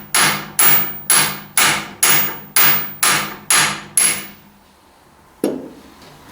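Hammer blows on steel, ringing with each strike, about two a second, nine in the row before they stop about four seconds in; a single knock follows about a second later. A socket is being driven onto a worn, tight nut.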